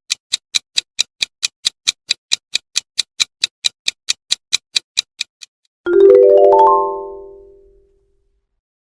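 Quiz countdown-timer sound effect: steady clock-like ticks, about four a second, for about five and a half seconds. Then a quick rising run of bright chime notes rings out and fades over about two seconds.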